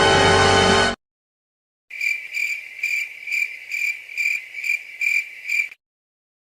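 Crickets chirping in an even pulse, about two to three chirps a second for nearly four seconds: the stock 'crickets' comedy sound effect for an awkward silence. It is preceded by the last second of a music cue that cuts off.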